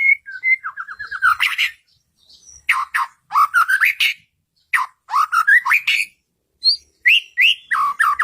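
White-rumped shama (murai batu) singing in varied phrases: clear whistled notes that sweep up and down, and quick runs of repeated notes, with short pauses between phrases.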